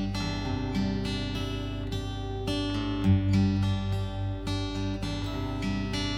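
Solo acoustic guitar played fingerstyle: plucked melody notes ringing over a steady bass line.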